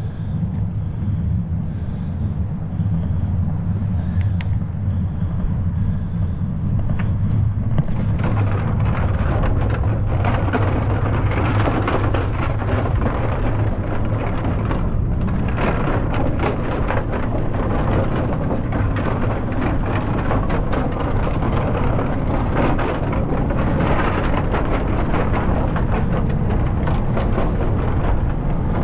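Wind buffeting the microphone and tyre noise on pavement while riding a bicycle; a steady low rumble that grows louder and fuller, with a crackly rattle, about eight seconds in.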